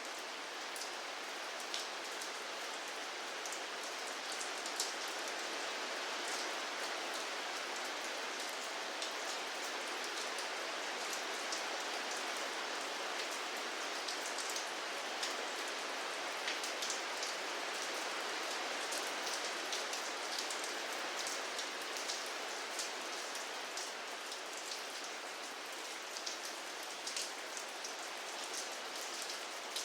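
Steady rainfall: an even hiss of rain with many distinct drops ticking sharply on a hard surface.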